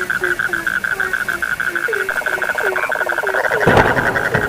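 A frog chorus: a short low croak repeated about three times a second over a steady, fast-pulsing high trill. About three quarters of the way in there is one louder, harsher burst.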